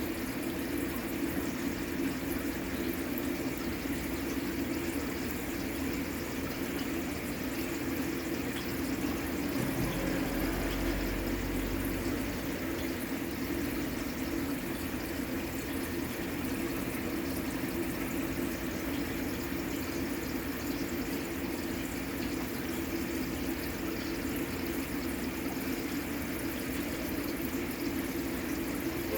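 Steady running and splashing of water circulating in a fish tank, an even constant wash, with a brief low rumble about ten seconds in.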